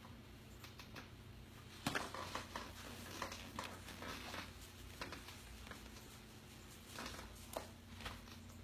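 Scattered light clicks and taps at an irregular pace, with one sharper knock about two seconds in, over a faint steady hum.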